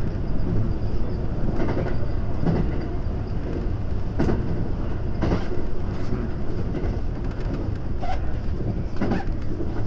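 JR West 521 series electric train running along the track, heard from inside the leading cab car: a steady rolling rumble broken by sharp, irregularly spaced clacks of the wheels over rail joints.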